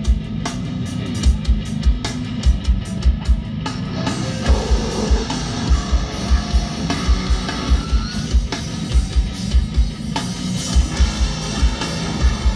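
Live hardcore band playing: heavy guitars over fast, pounding kick-drum hits, the sound filling out with brighter cymbal and guitar about four seconds in.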